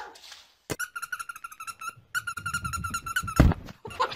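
An animal's fast, pulsing trill-like call, sounded in two runs of about a second each at a steady pitch, followed by a loud thump near the end.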